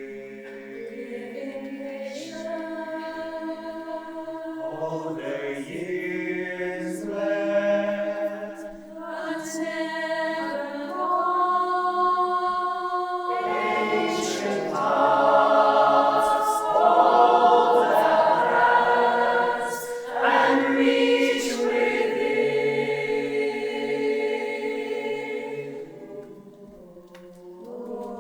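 A choir singing held chords in several voices, swelling louder through the middle and dropping away near the end.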